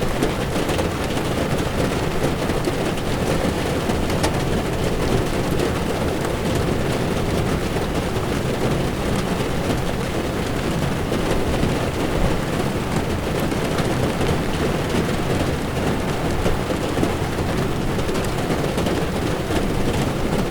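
Heavy rain falling on a moving car's windshield and body, with tyre noise on a wet road, heard from inside the car: a steady, deep wash of noise with faint scattered drop ticks.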